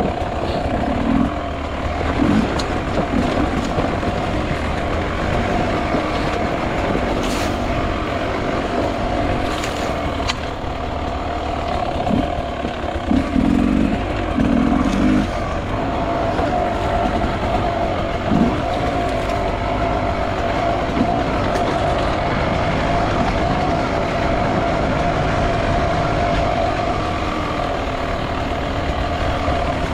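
Two-stroke enduro motorcycle engine running at a fairly steady pitch while riding off-road, with a few short knocks and thumps from the bike over the terrain.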